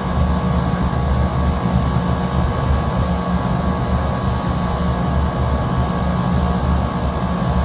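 Trane split-system outdoor condensing units running, a loud steady hum with a heavy low drone from compressor and fan.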